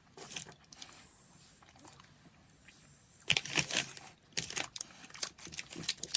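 Snack wrapper packaging crinkling in irregular bursts as it is handled, starting about halfway through after a quiet stretch.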